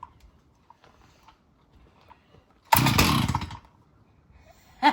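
Stihl MS 361 two-stroke chainsaw pulled over on full choke: a few faint clicks, then about three seconds in the engine fires in one loud burst under a second long and dies, the pop that signals it is time to go to half choke.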